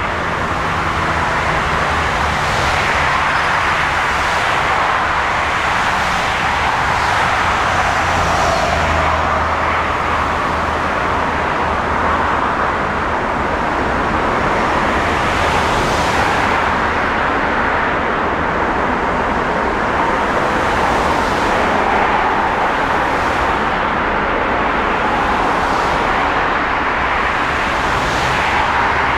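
Jet aircraft engine noise: a loud, steady rushing sound that holds level without a clear rise or fall.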